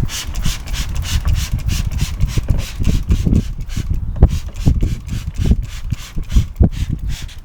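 Trigger spray bottle of Armor All protectant being pumped rapidly over an engine bay, a quick hissing squirt several times a second, with a low rumble underneath.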